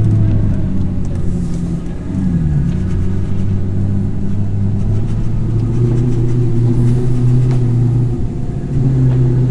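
Audi R8's 4.2-litre V8 engine running at low, fairly steady revs while driving, with a brief dip in pitch about two seconds in.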